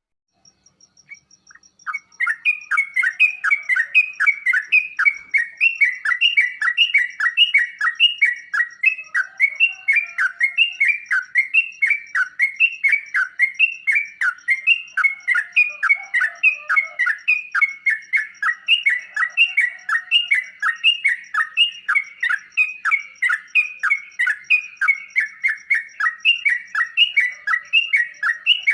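Yellow-vented bulbul (trucukan) calling: a continuous stream of rapid chirps, several a second, starting about two seconds in.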